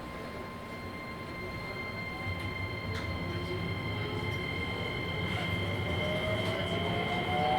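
Keisei 3000 series electric train, heard from inside the car, starting off and accelerating. The Toyo IGBT VVVF inverter and traction motors give a whine of several tones that rise in pitch, while the running noise grows steadily louder.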